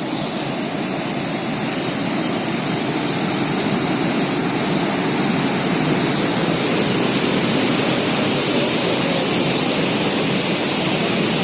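Swollen river in flood, its fast, high water rushing in a steady, loud wash of noise.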